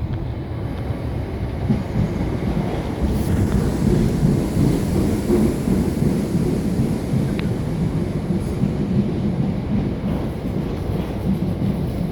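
Class 455 electric multiple unit running along the track: a steady rumble of wheels on rails that swells a little a few seconds in.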